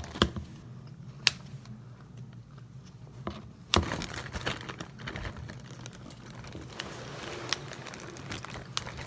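Scissors cutting up a foam squishy toy: scattered sharp clicks of the blades a few seconds apart, with light rustling and handling between them.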